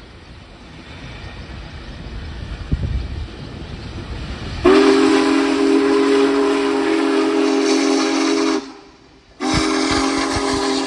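Union Pacific Big Boy No. 4014's steam whistle sounding a chord of several pitches. The first long blast starts abruptly about halfway through, there is a brief break, and a second blast carries on. Before the whistle, a low rumble grows steadily louder.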